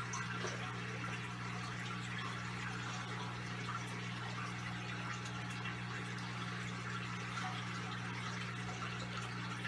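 Electric fan and space heater running steadily, blowing air under a soaked carpet, with a constant electrical hum beneath the rushing air.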